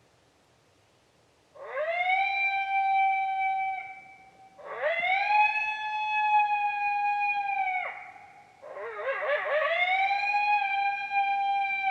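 Three long coyote howls from a predator call. Each rises quickly at the start, holds a steady pitch for a few seconds and drops off at the end; the third opens with a wavering warble.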